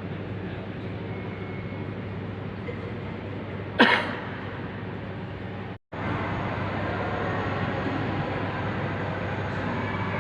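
Steady mechanical drone of an airliner on the ground, its engines or auxiliary power unit running, with a sharp knock about four seconds in. The sound cuts out for an instant near six seconds, then comes back slightly louder.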